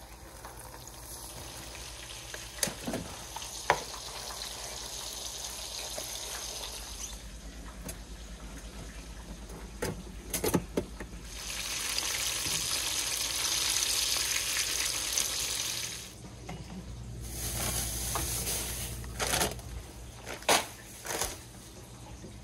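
Breaded crappie fillets deep-frying in hot peanut oil in a skillet: a steady sizzle that grows much louder for a few seconds in the middle. Sharp knocks and clatters come now and then, the loudest near the end.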